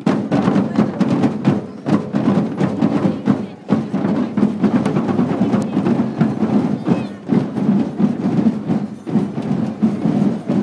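Marching band drums playing, with people's voices in the background.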